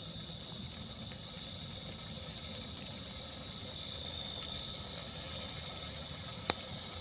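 Night crickets chirping in short repeated trills over a steady high insect drone, with one sharp click about six and a half seconds in.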